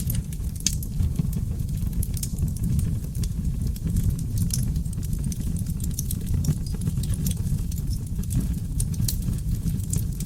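Wood fire of oak logs burning in a fireplace: a steady low rumble of flames with frequent, irregular sharp crackles and pops.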